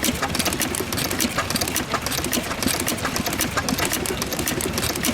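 Richard Hornsby petrol stationary engine running steadily with a fast, even mechanical clatter of clicks.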